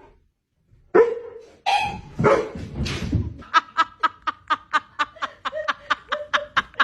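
Animal calls: a few loud cries about a second in, then a fast, even run of short yelps at about five a second.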